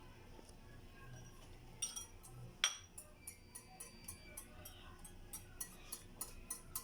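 A utensil clinking against a bowl: a few light clinks, a sharper one about two and a half seconds in, then a rhythmic run of light clinks at about three or four a second as the cake batter is worked.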